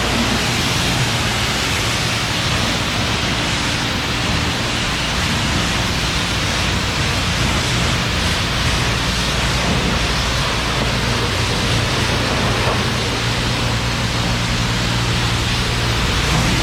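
High-pressure rinse water spraying from a self-serve car wash wand onto a car: a steady hiss, with a low steady hum underneath.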